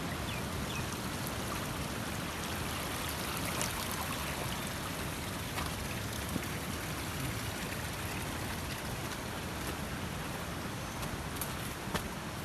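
Steady rushing of flowing water, a stream running, with a couple of faint ticks.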